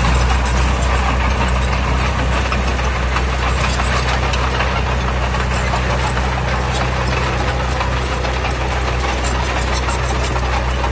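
Heavy diesel earthmoving engine running steadily, a loud continuous low drone.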